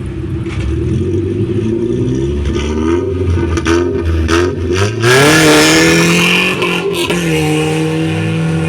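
Rally car engine idling, then revved in short blips on the start line. About five seconds in it launches hard with the engine note climbing, the loudest moment, and shifts gear about two seconds later as it pulls away.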